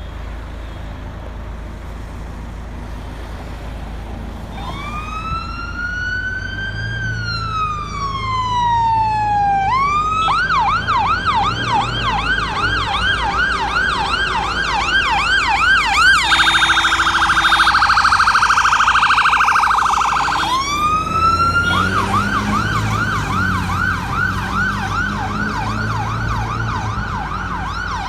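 Electronic emergency-vehicle siren over a low vehicle rumble. After a few seconds of rumble it starts with a slow wail that rises and then falls, switches to a fast yelp of repeated sweeps, then to a much faster warble for a few seconds, then returns to a rising wail and the yelp.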